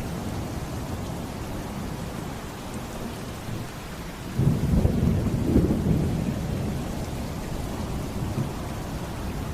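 Steady rain over a continuous low storm rumble, with a louder roll of thunder swelling about four and a half seconds in and dying back over the next two seconds.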